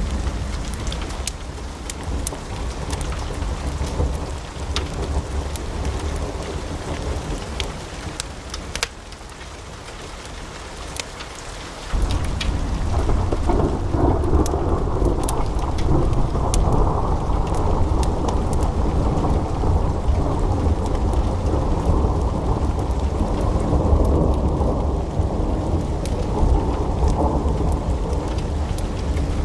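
Wood fire crackling in a fireplace, with sharp pops over a steady hiss. About twelve seconds in, the sound cuts abruptly to a louder, deeper steady rumble of flames with fewer pops.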